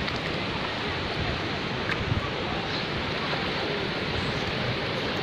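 Steady rush of water at the shoreline, sea surf mixed with a small stream falling into the sea, with a faint click about two seconds in.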